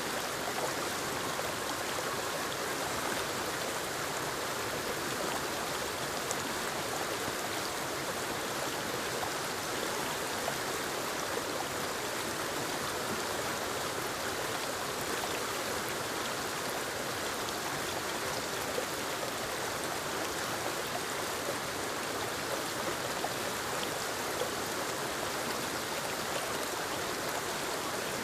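Waterfall and creek water rushing and splashing over rocks: a steady, even noise that does not change.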